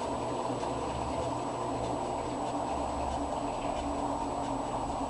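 Electrolux washing machine running: a steady churning noise with faint, irregular ticks over it.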